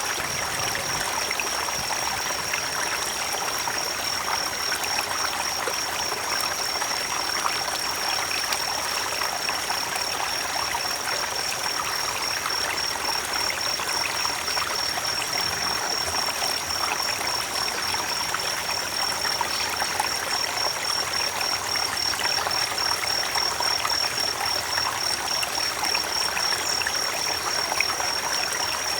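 Creek water flowing and trickling steadily, with a steady high-pitched trilling tone over it.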